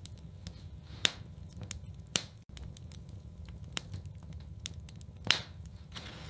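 Wood fire burning in a fireplace: frequent sharp crackles over a steady low rumble, with three louder pops, about a second in, just after two seconds and past five seconds.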